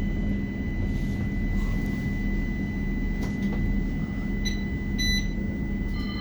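Cabin noise of a West Midlands Metro tram running between stops: a steady low hum and rumble with a thin constant high whine. Two short electronic beeps come about four and a half and five seconds in.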